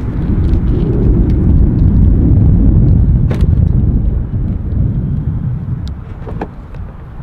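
Devel Sixteen hypercar pulling away and driving off: a loud, low engine and road rumble that builds over the first couple of seconds, then eases off.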